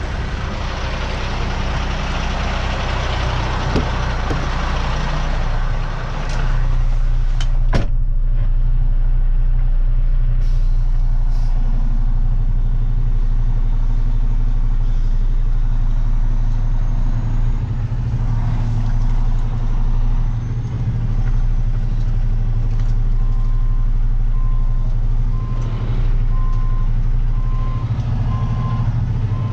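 Tow truck's engine running as it backs up, with a loud hiss of air for the first several seconds, like air brakes releasing. Then a steady engine drone, and near the end a reversing alarm beeping at a regular pace.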